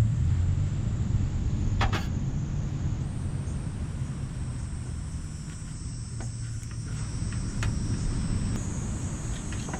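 Insects chirring in a steady, high, even tone over a louder low rumble, with a single click about two seconds in.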